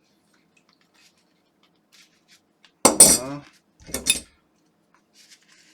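Two short metallic scrapes with a squeaky ring, about a second apart, the first the louder: a hand tool prying at a part stuck inside an electric toothbrush handle, with faint ticks of handling around them.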